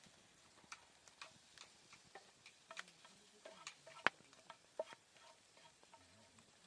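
Faint, irregular small clicks and ticks, with one sharper click about four seconds in.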